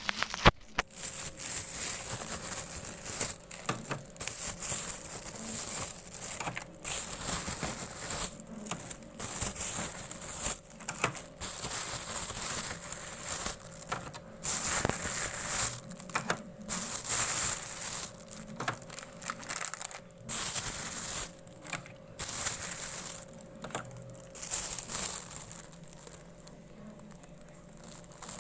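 Plastic bags and food wrappings crinkling and rustling in irregular bursts as they are handled, over a faint steady hum. The rustling thins out near the end.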